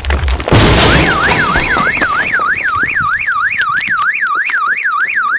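Car alarm siren whooping in a fast, even up-and-down sweep, about three or four cycles a second, starting about a second in after a loud burst of noise.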